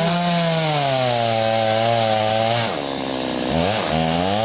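Gas chainsaw running at high revs, its pitch sagging about two and a half seconds in as it works through wood, then climbing back up near the end.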